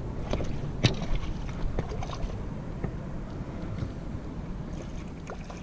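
Wind rumbling on the microphone over the sound of water, with a few sharp clicks and knocks, the loudest about a second in.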